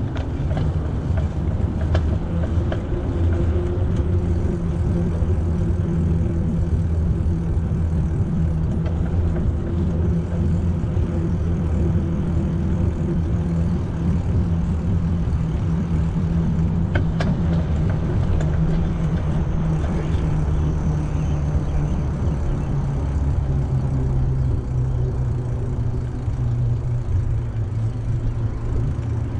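Steady low wind rumble on the microphone of a camera riding along on a moving bicycle, with tyre and road noise, and one sharp click partway through.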